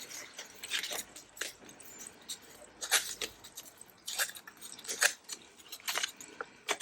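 Thick 120 gsm paper being cut and handled: irregular short, crisp snips and rustles, with the paper resisting the cut.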